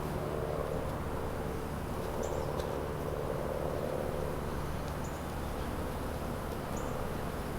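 Steady low hum of city background noise, with a few faint, short, high bird chirps spread across several seconds.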